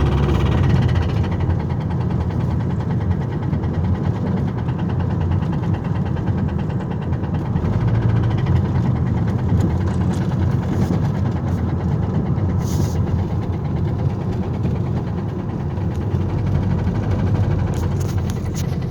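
Car engine running with a rapid, rhythmic rod knock over its steady noise: the sign of a worn or failed connecting-rod bearing.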